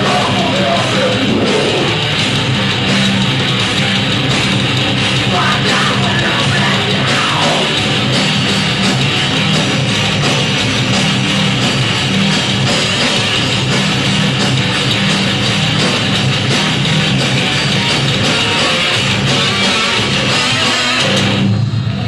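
A rock band playing heavy metal live, with loud distorted guitars and drums that run steadily and stop shortly before the end.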